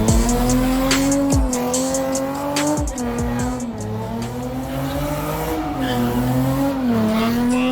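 Car engine held at high revs, its pitch wavering up and down, with tyre squeal, typical of a burnout or donut at a street takeover. Rap music with heavy bass hits plays over it.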